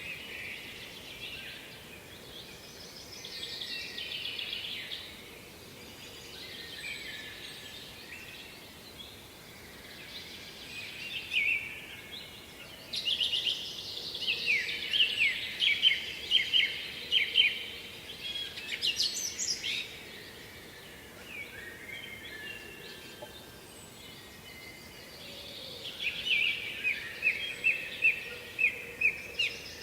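Small songbirds singing in bouts of rapid, fast-repeated trilling notes, loudest in the middle and again near the end, over a low steady background hiss.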